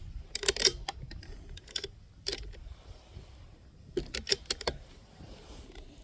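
Metallic clicks and rattles from working the bolt of a Bergara B14R .22LR bolt-action rifle. They come in short groups, about half a second in, twice around two seconds in and again about four seconds in.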